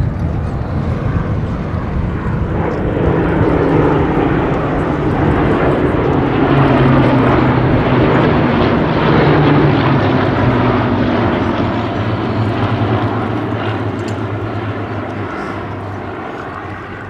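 Hawker Hurricane fighters' Rolls-Royce Merlin V12 piston engines droning overhead in a flypast. The sound swells to its loudest about halfway through, the engine note drops in pitch as they pass, and it then fades away.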